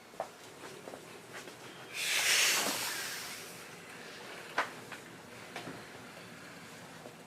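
A loud hiss starting suddenly about two seconds in and fading over a second and a half, with scattered light clicks and taps of work on a motorcycle's rear end.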